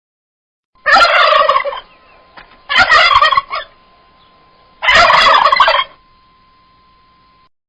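Male turkey gobbling three times, each gobble a rapid warbling call just under a second long, about two seconds apart.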